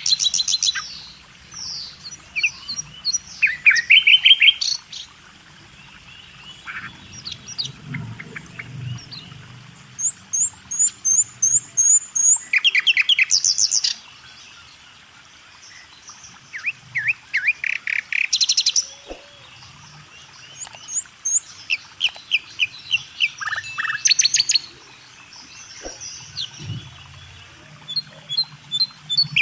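Songbirds chirping in short phrases of rapid repeated notes, one phrase every few seconds with brief quieter gaps between.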